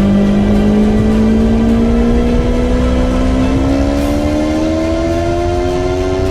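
Small-displacement sport motorcycle engine accelerating under load, its note rising slowly and steadily as the revs climb through a long gear.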